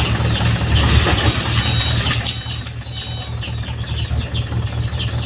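Mitsubishi Canter HDX dump truck's diesel engine running at a steady idle, with small birds chirping repeatedly over it, about three chirps a second.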